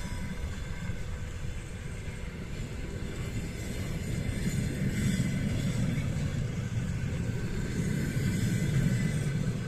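Passenger train coaches rolling past on the rails: a steady low rumble that grows louder about halfway through.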